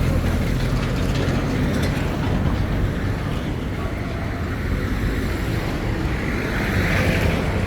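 Busy street ambience: traffic noise with a vehicle engine running steadily close by, a low, even engine sound under a wash of street noise.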